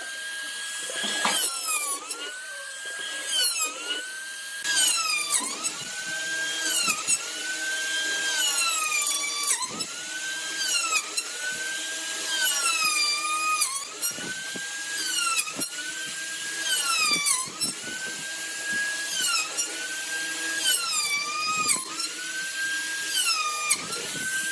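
A small power tool's motor whining in woodwork, its pitch sagging under load and climbing back up again and again, about every second and a half.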